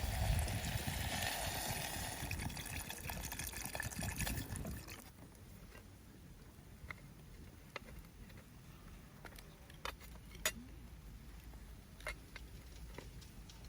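Liquid, likely water, pouring steadily for about five seconds, then stopping abruptly, followed by a few faint, scattered clicks.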